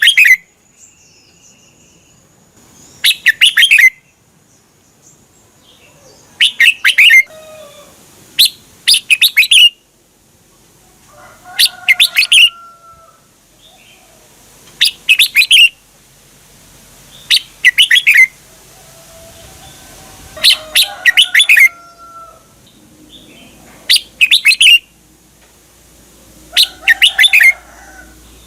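Red-whiskered bulbul singing: loud, bright, warbling phrases of about a second each, repeated about every three seconds with short pauses between.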